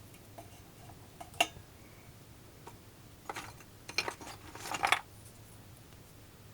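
Hard small objects being handled: a sharp click about a second and a half in, then a run of clattering knocks between about three and five seconds in.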